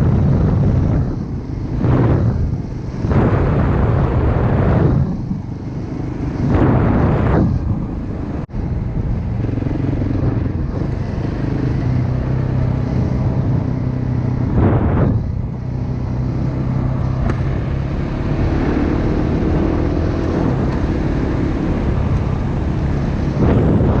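Dirt bike engine running steadily at riding speed, with gusts of wind buffeting the microphone in the first several seconds.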